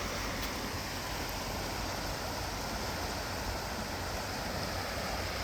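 Steady wash of wind and small waves on the bay shore, with a low wind rumble on the microphone.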